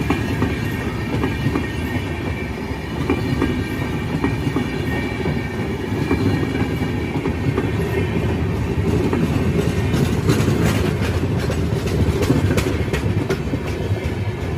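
Express passenger train passing: a steady rumble of wheels on rail with the clickety-clack of wheels over rail joints. The clacks come thick and fast from about ten seconds in.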